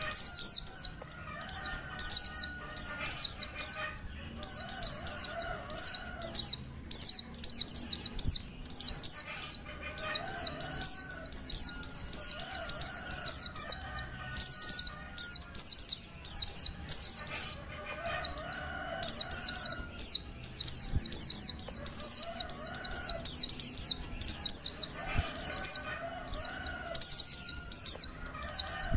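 Female white-eye (pleci) calling in bursts of rapid, high, falling chirps, each burst about a second long and repeated over and over. This is the female's call used as a lure to make male white-eyes sing. Fainter, lower warbling calls run underneath.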